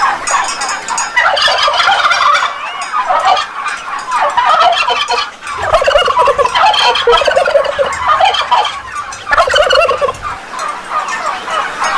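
Turkey gobbling in repeated bursts of rapid calls, with brief pauses between them.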